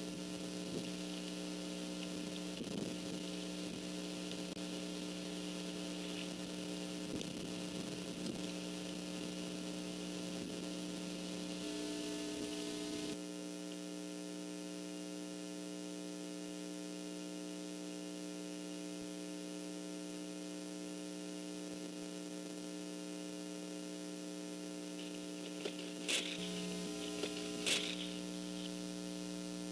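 Steady electrical hum, several pitches held together, in a nest camera's audio feed, with a faint hiss over it. Two short sharp sounds come close together near the end.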